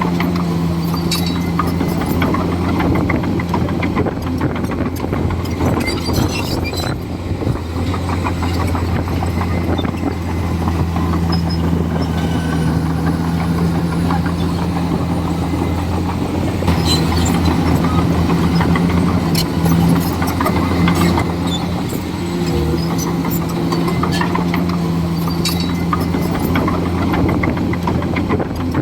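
Komatsu D41E bulldozer's diesel engine running steadily under working load, with frequent clanks and sharp clicks over it. The engine gets louder for a few seconds about two-thirds of the way through.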